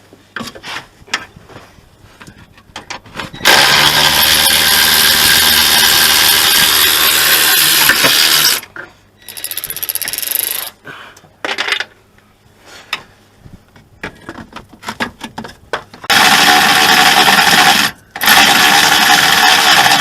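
A power tool runs in long loud spells, from about four seconds in for some five seconds and again from about sixteen seconds on with a short break, with scattered clicks and knocks of hand tools between the spells.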